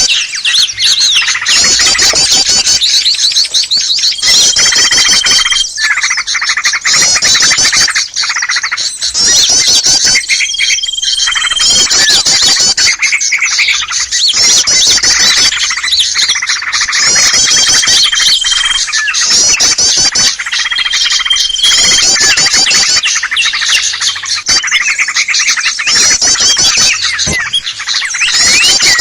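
A dense, noisy chorus of many small birds chirping, trilling and squawking over one another, with repeated bursts of rapid notes and a short steady whistle four times. This is a bird-trapping lure recording of mixed small-bird calls.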